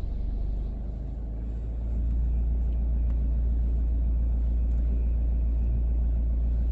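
Automatic car wash machine running, a steady low rumble heard from inside the car's cabin, growing louder about two seconds in.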